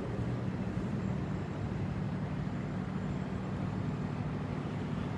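A motor vehicle's engine idling, a steady low hum that holds even throughout.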